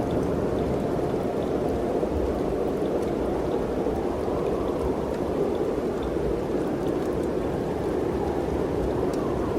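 Steady rushing wind in mountain trees, an even noise with a low rumble underneath and no gusts rising or dropping away.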